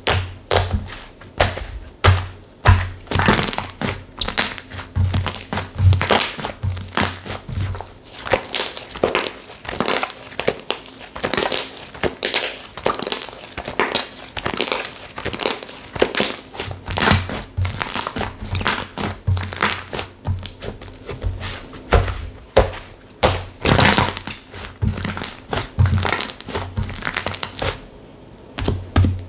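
Textured slime squeezed and pressed by hand, giving dense, irregular crackling and popping clicks throughout.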